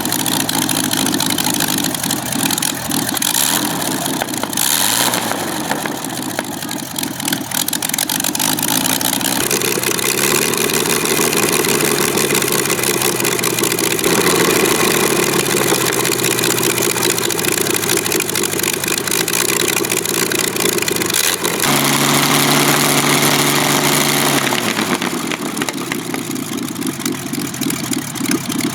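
Avia M 137 six-cylinder air-cooled aircraft engine running, its pitch shifting several times as the engine speed changes.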